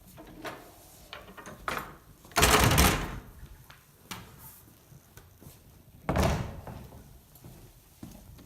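Wardrobe doors being closed: two door sounds, a longer, louder one about two and a half seconds in and a sharper one about six seconds in that dies away.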